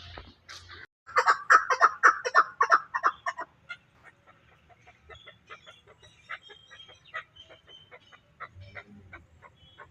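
Chukar partridge calling: a loud, rapid series of clipped notes lasting about two and a half seconds, followed by fainter rapid notes.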